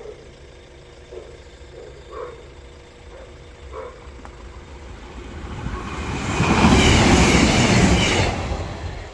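Northern Class 155 Super Sprinter diesel multiple unit passing over the level crossing. Its noise builds from about five seconds in, is loudest for a couple of seconds, then falls away quickly near the end.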